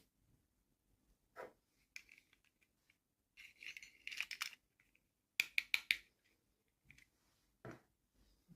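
Toy packaging and small plastic pieces being handled and opened: rustling and scratching, a quick run of sharp clicks about two-thirds of the way through, and a dull knock near the end.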